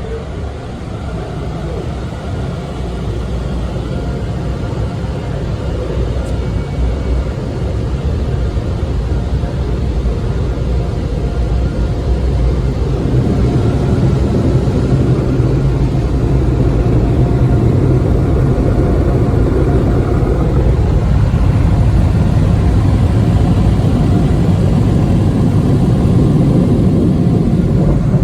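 D&S IQ 2.0 in-bay automatic car wash machinery running: a steady, loud rushing rumble that grows gradually louder.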